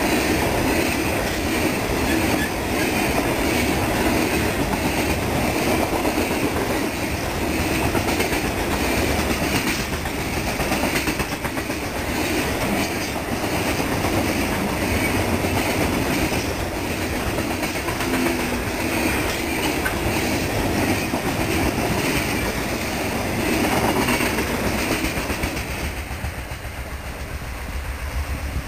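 Coal gondola cars of a freight train rolling past close by: a steady rumble and rattle of steel wheels on rail, with the clickety-clack of wheels over rail joints. Near the end the sound drops to a quieter low rumble.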